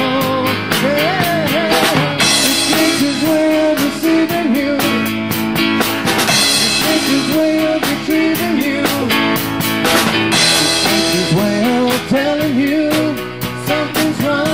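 Live rock band playing an instrumental passage: a lead guitar line with bending, sliding notes over a drum kit keeping a steady beat, with cymbal crashes about every four seconds.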